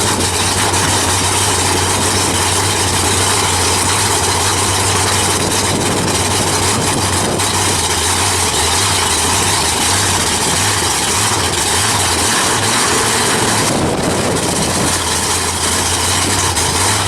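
An engine running steadily at idle: a constant low drone with a hiss over it, unchanging throughout.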